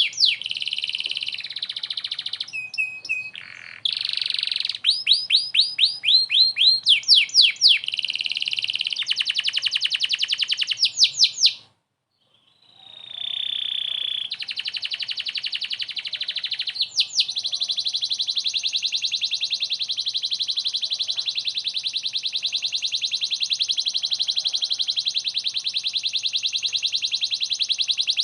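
Domestic canary singing vigorously: quick series of repeated whistled sweeps, stopping for about a second just before halfway, then one long, fast, even trill.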